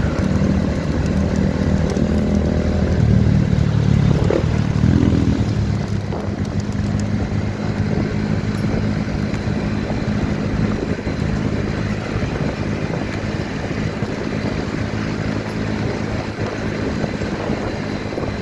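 Motorcycle engine running while riding. It is louder for the first few seconds, changes pitch about four to five seconds in, then runs steadily at a lower level.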